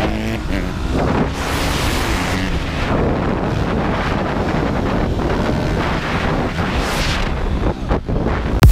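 Wind rushing over the microphone of a phone carried on a moving dirt bike, with the bike's engine running steadily underneath.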